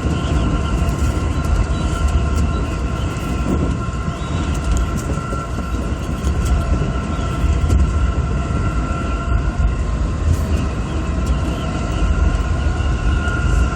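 Running noise of an electric commuter train heard from on board: a steady low rumble of wheels on rail, with a few faint whines held at an even pitch.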